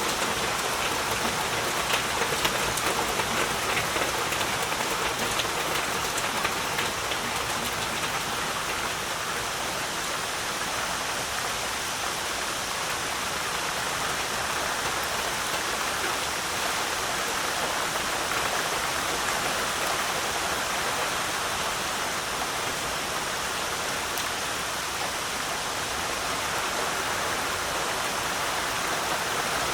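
Heavy rain falling steadily as an even rushing hiss, with distinct individual drop hits standing out for the first several seconds before it evens out.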